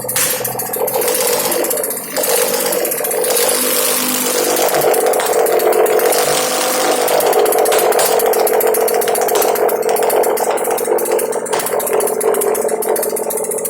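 Nissan VQ35DE 3.5-litre V6 engine running on a test stand, its pitch and level rising a little about four seconds in and holding there.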